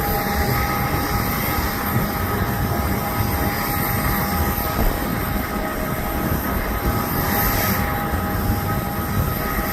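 Airliner engine noise running steadily, a continuous rumble with a constant high-pitched whine, unchanging throughout.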